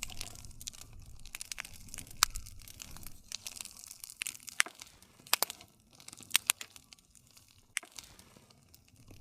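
Wood bonfire crackling: irregular sharp pops and snaps over a soft hiss and low rumble of the flames, with the loudest pops about two seconds in and again between five and seven seconds.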